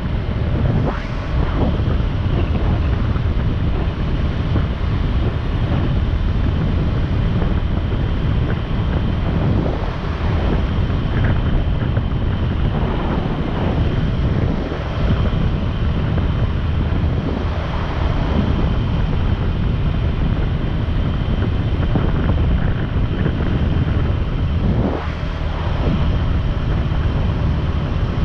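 Motorcycle under way at a steady speed: the engine running evenly beneath heavy wind rush on the microphone.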